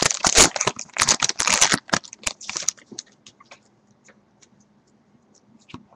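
Crinkling of a baseball card pack's wrapper as it is torn open and handled, for about the first two and a half seconds, then a few scattered light ticks of cards being handled.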